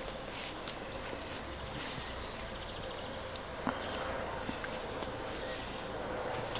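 Small songbird chirping: a run of short, arched high notes, loudest about three seconds in, over a faint steady hum and a few light clicks.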